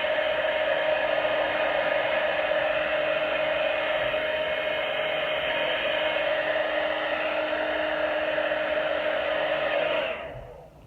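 Small electric appliance motor whirring steadily with a fixed hum, switched off and winding down about ten seconds in.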